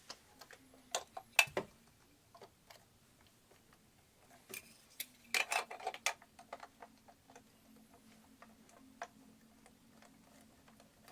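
Plastic Lego pieces clicking, tapping and snapping together as a build is reassembled by hand: scattered sharp clicks, one louder snap about a second and a half in and a quick cluster of them around five to six seconds in.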